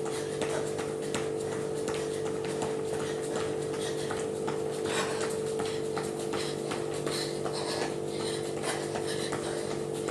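Rapid rhythmic footfalls of shoes on the floor, about three a second, from jogging in place with butt kicks, over a steady low hum.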